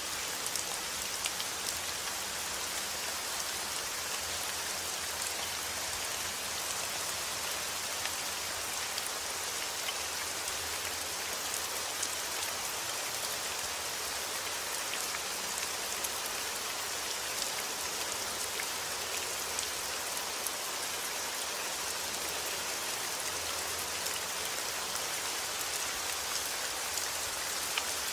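Steady heavy rain falling outdoors, a dense hiss with the sharp ticks of individual drops hitting a surface.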